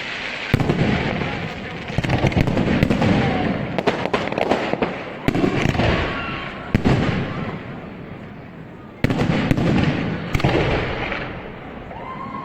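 Professional fireworks display: volleys of aerial shells bursting, with sudden loud onsets about half a second in, at 2 s, around 5 s and at 9 s, each followed by dense crackling that dies away.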